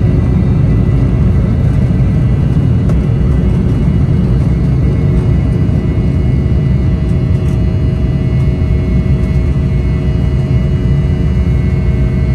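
Embraer E-190's General Electric CF34 turbofans heard from inside the cabin: a loud, steady rumble with several steady engine tones, including a high whine, above it.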